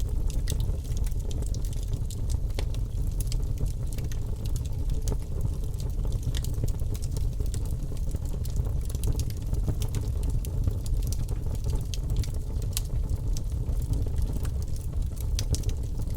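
Logs burning in an open wood fireplace: a steady low rumble of the flames with frequent small, irregular crackles and pops.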